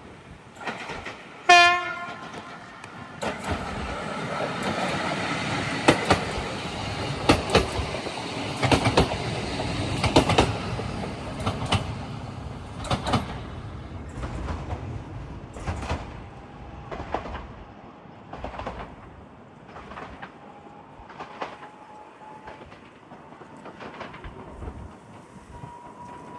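Regional train sounding a short horn blast, then passing close by, its wheels clicking over the rail joints. The clicks thin out and fade as it goes away, with a faint steady whine rising slightly in pitch near the end.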